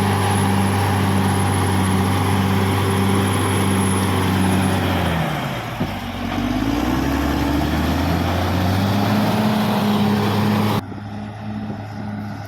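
Caterpillar D6R XL bulldozer's diesel engine running steadily. About five seconds in the engine speed drops, then climbs back up by about nine seconds. Near the end the sound cuts suddenly to a quieter, duller engine hum.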